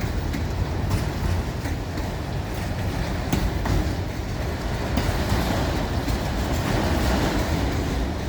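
Train cars rolling past with a steady low rumble, with scattered clicks of the wheels over the rail joints.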